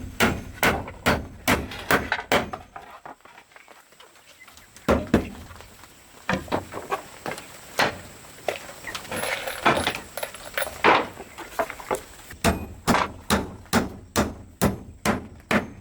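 A hand tool striking wood in quick series of sharp knocks, about two or three a second. After a couple of seconds it pauses to a few single knocks, with a stretch of scraping in the middle. Rapid knocking resumes near the end.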